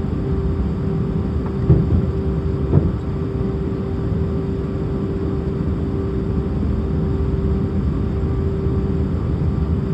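Airbus A319 cabin noise: the steady rumble and hum of the jet engines and airflow, with two brief thumps close together a couple of seconds in.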